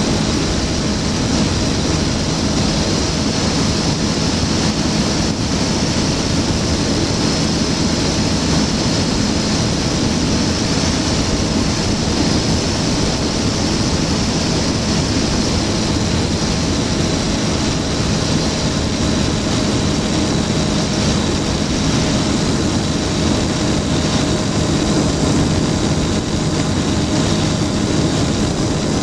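Flightstar II light-sport aircraft's engine and propeller running at a steady speed, with a constant rush of noise and no change in pitch.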